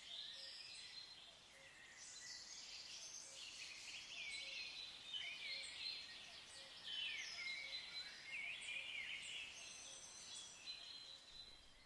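Songbirds chirping faintly: many short, quick notes that rise and fall, overlapping.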